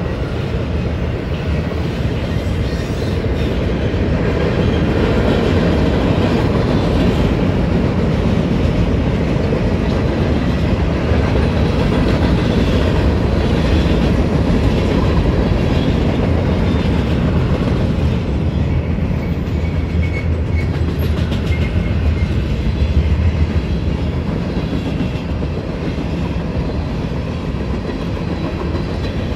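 Freight train cars rolling past: a steady noise of steel wheels running on the rails, from a mixed consist of flatcars, boxcars and hoppers.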